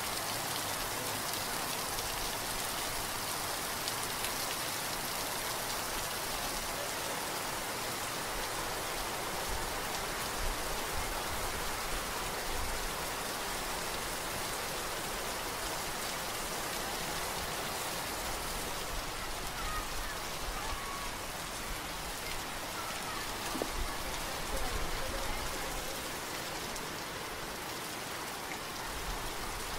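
Steady rain falling: an even, constant hiss that does not break.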